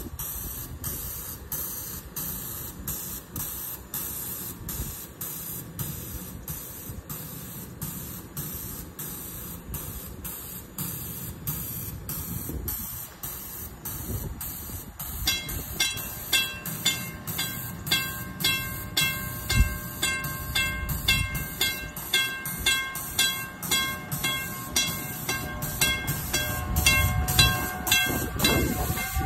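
Metra Electric Highliner commuter train pulling slowly into the station, its running noise growing louder as it nears. From about halfway through, a regular clicking beat of roughly one or two strikes a second grows stronger as the cars come alongside.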